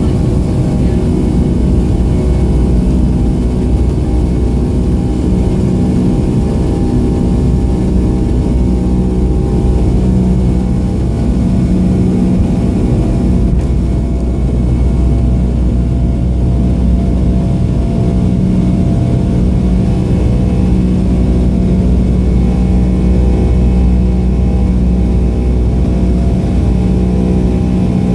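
Boeing 757-232's two Pratt & Whitney PW2037 turbofans at climb thrust just after takeoff, heard inside the cabin as a loud, steady drone with a deep hum and several steady whining tones.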